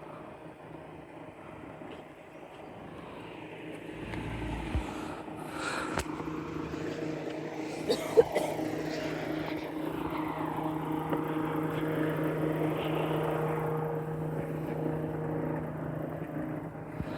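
A vehicle engine's steady hum building over several seconds and then easing off. There is a low thump about four seconds in, and sharp clicks around six and eight seconds in.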